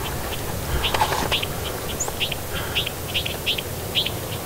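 Small birds chirping: short high notes at roughly two a second, with one thin downward-sliding whistle about two seconds in, over a soft outdoor hiss.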